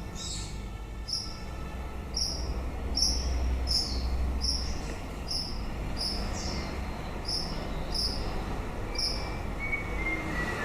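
Birdsong: short high chirps repeated steadily, about three every two seconds, over a low steady rumble. Near the end a few clear whistled notes step up and down in pitch, from a white-rumped shama.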